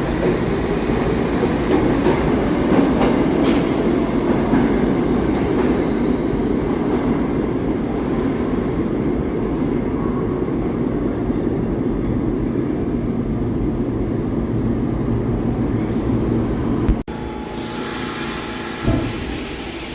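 New York City subway train running on the rails: a steady heavy rumble with faint high wheel-on-rail squeaks. It cuts off abruptly about 17 seconds in, giving way to a quieter background.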